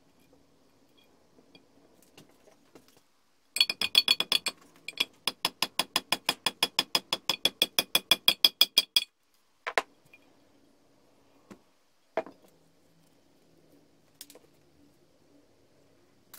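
A quick, even run of sharp, ringing metal clicks, about five a second for some five seconds, that stops abruptly. A few single clicks follow.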